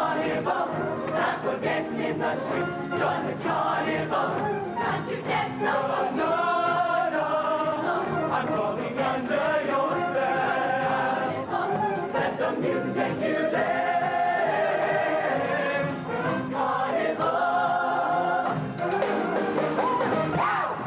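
Show choir singing in full harmony, holding long sustained chords, over instrumental accompaniment with sharp percussion hits in the first few seconds.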